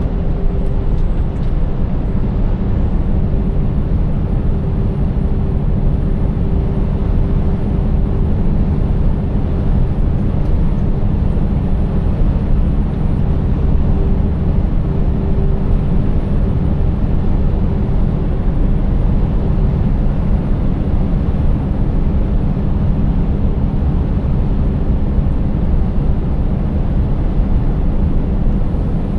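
Scania 590 S truck's V8 engine running steadily under way, with tyre and road noise. It is a constant low rumble with a faint steady whine above it.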